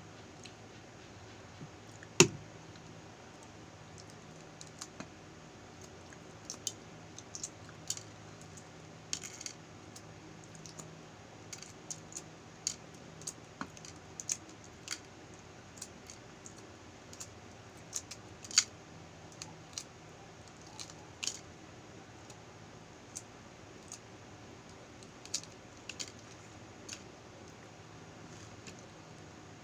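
Balut eggshell being cracked and peeled off by hand: scattered small crackling clicks as bits of shell break away, with one sharp crack about two seconds in. A faint steady hum runs underneath.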